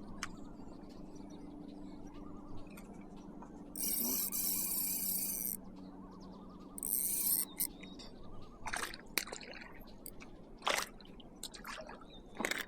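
Fishing rod and spinning reel in use: two spells of reel whirring as line is wound in, the first about four seconds in and the second a little later, followed by several sharp clicks and knocks of handling.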